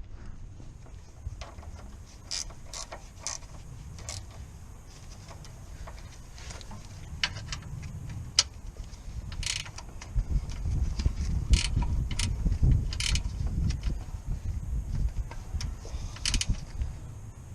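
Irregular mechanical clicks and knocks from work on the car, over a low rumble that grows louder about ten seconds in.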